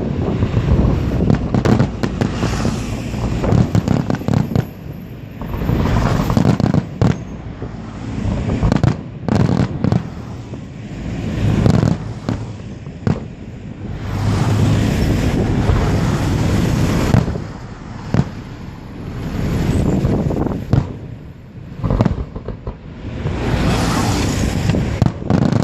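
Aerial fireworks display: a dense barrage of bangs and shell bursts with crackling, coming in loud waves of a few seconds each with short lulls between them.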